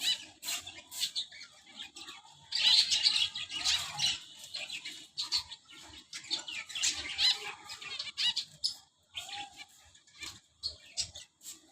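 Pet birds chirping and flapping their wings, with many short clicks and two louder spells of dense chirping, about two and a half and six seconds in.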